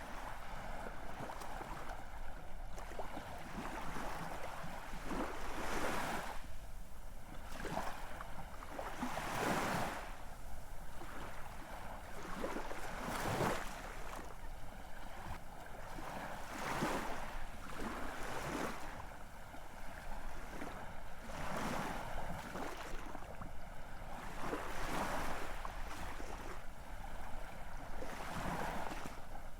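Ocean waves lapping and splashing, in irregular splashes every second or two over a steady wash of water.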